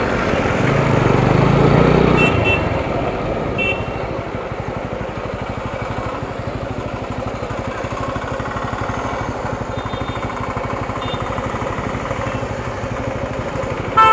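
Motorcycle engine running, louder in the first two seconds, with brief horn toots about two and four seconds in.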